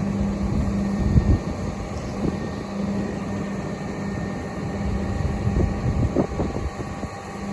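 Refuse truck's engine running with a steady hum while its hydraulic push-out ejector shoves the load of bagged leaves out the back. There are low rumbling thuds about a second in and again around six seconds in.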